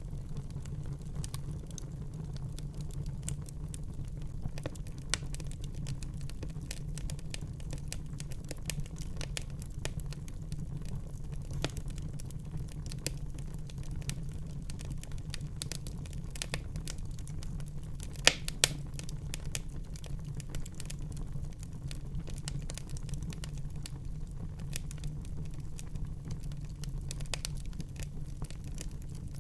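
Wood fire burning in a fireplace: a steady low rumble of flame with frequent small crackles throughout. Two louder pops come in quick succession a little past the middle.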